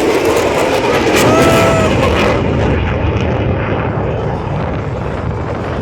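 F-22 Raptor's twin Pratt & Whitney F119 jet engines passing overhead, a loud crackling jet noise that peaks in the first two seconds and then dulls as the high end fades away.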